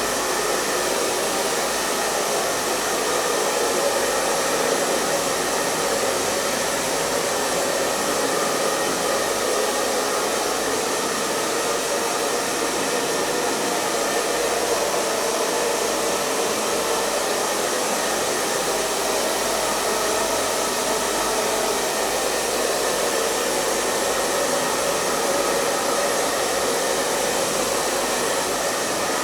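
Hair dryer running steadily: a constant airy rush from the fan and blowing air, with no change in speed.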